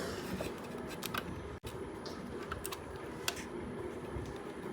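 A few scattered light clicks and rattles of plastic parts and wiring being handled inside an opened mixer grinder as a piece is pulled out.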